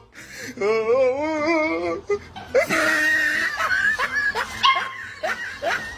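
A dog whining: a long cry wavering up and down in pitch, followed by a run of short rising yelps.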